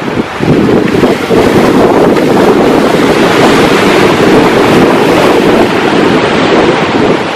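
Ocean surf with strong wind buffeting the microphone. A loud gust comes up about half a second in, holds, and eases off near the end.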